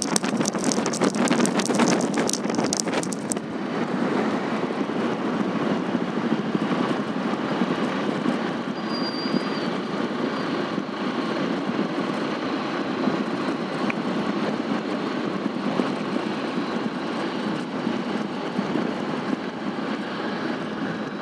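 Steady running noise and wind from a moving vehicle, with a rattling clatter for the first three seconds or so before it settles into an even rush.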